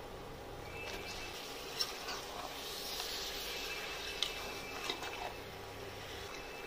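Raw chicken pieces sizzling as they drop into hot onion-and-masala in an aluminium pressure cooker and are stirred, with a metal spoon clinking sharply against the pot three times.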